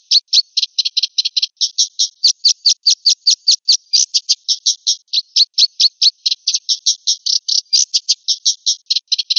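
Black-winged starling (jalak putih) calling: an unbroken string of short, high-pitched notes repeated at about five a second.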